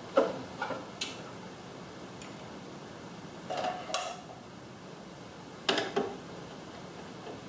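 Small parts of a garage door opener clinking and clattering as they are handled during disassembly: a few scattered light knocks, with louder clusters about halfway through and near the end.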